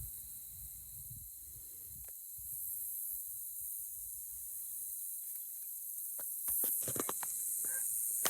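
Steady high-pitched insect chorus, with a low rumble of wind on the microphone and a few sharp clicks near the end.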